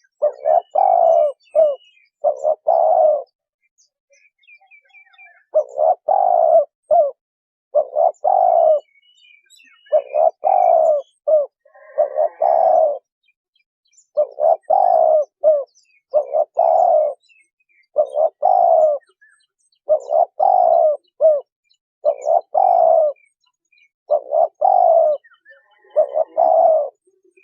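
Spotted dove cooing: a low, several-note coo phrase repeated about every two seconds, with a pause of about two seconds near the start. Faint high chirps of small birds sound between the phrases.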